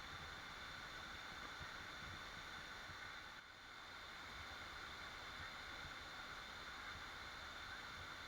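Waterfall rushing steadily as a continuous wash of falling water, with a brief dip in level about three and a half seconds in.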